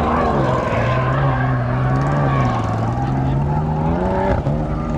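A car engine revving, its pitch wandering up and down, climbing near the end and then falling away.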